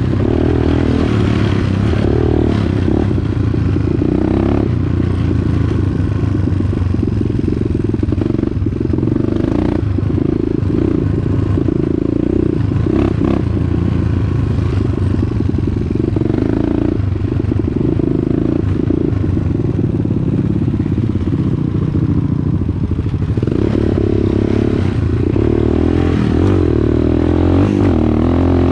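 Dirt bike engine running under way, its note rising and falling with the throttle, with scattered clatter and knocks from the bike over rough trail.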